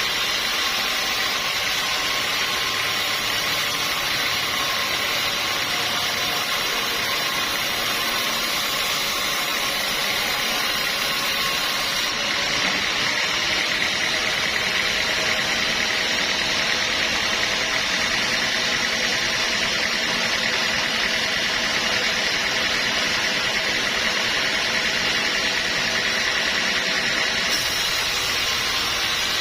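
Sawmill machinery running steadily: a constant loud mechanical whine with a held high tone and no breaks or changes.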